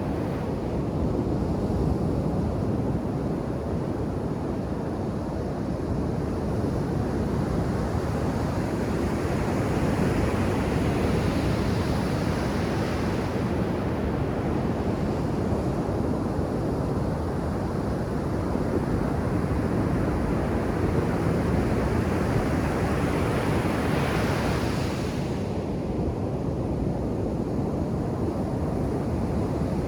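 Ocean surf on a beach: a steady low wash of waves, with a wave breaking and hissing in louder about a third of the way through and again past three-quarters of the way.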